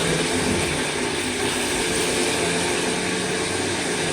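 Tap water running steadily, flushing through a vacuum cleaner hose into a tub.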